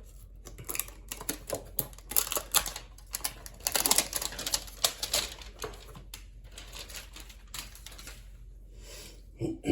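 Packaging of a trading-card hanger box being torn open by hand: a run of quick, irregular crackles and tearing, busiest about four seconds in, then a few quieter rustles.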